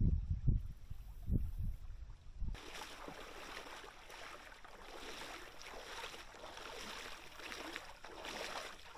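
Low thumps on the microphone for the first couple of seconds, then an abrupt change to a steady rush of shallow creek water running over the creek bed.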